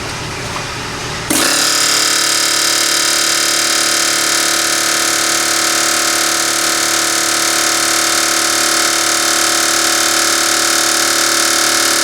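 Pneumatic air hammer driving against a seized kingpin in a medium-duty truck's front axle: a loud, steady rapid-fire buzz that starts suddenly about a second in and keeps going without a break.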